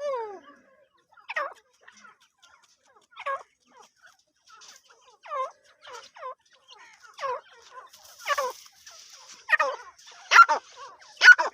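Grey francolin (white teetar) calling: a series of harsh, downward-sweeping calls. They come about every two seconds at first, then faster and louder toward the end.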